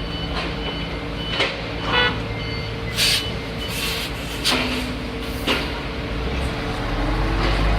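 Heavy diesel construction machinery running steadily, with a reversing alarm beeping during the first few seconds and several sharp clanks; the engine grows louder near the end.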